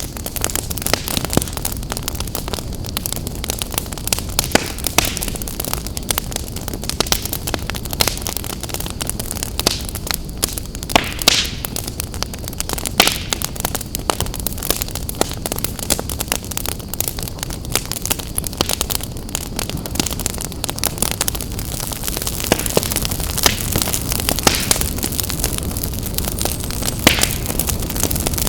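Wood fire burning in a fireplace, crackling with frequent sharp irregular pops over a steady low rush.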